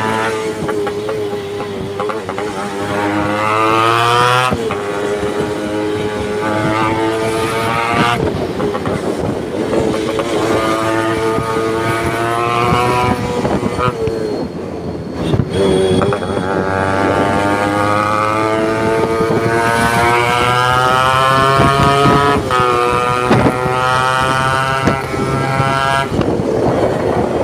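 Modified Yamaha RX100 two-stroke single-cylinder engine being revved. It is held at high revs for several seconds at a time, its pitch rising and falling, and there are short drops in revs about every four to eight seconds.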